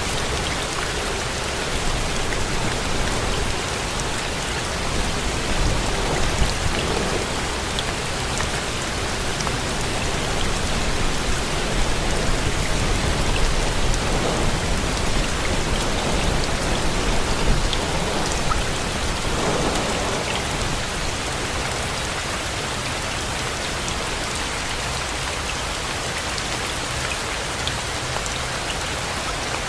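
Steady rain falling, with a low rumble of thunder swelling through the middle stretch and fading in the last part.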